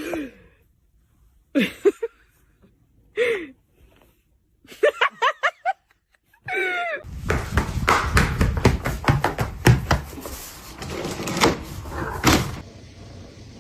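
Several short vocal calls falling in pitch, a quick run of short calls, then one longer rising-and-falling call. These are followed by about five seconds of clattering with many sharp knocks and thumps, which stops suddenly.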